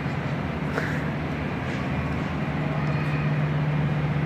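Steady low hum of a running engine or motor, with a faint click about a second in.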